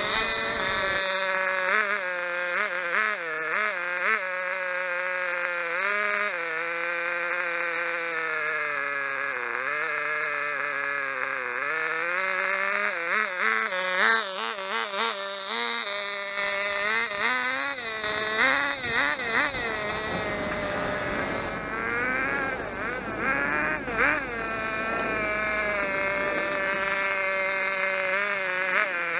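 Small glow-fuel engine of a 1/16-scale radio-controlled car running with a buzzing note, its pitch rising and falling with the throttle and sweeping quickly up and down several times around the middle and later.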